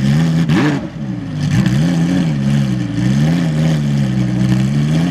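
Lamborghini Huracán Super Trofeo race car's V10 engine running at low revs, its note rising and falling gently with light throttle, with one quick blip about half a second in.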